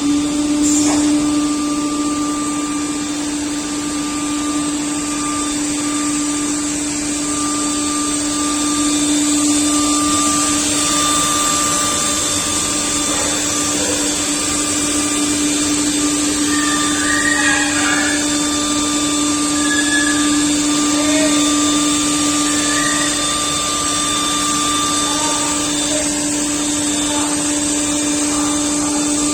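CNC router cutting wooden wardrobe panels: the spindle holds a steady whine over a constant rushing noise.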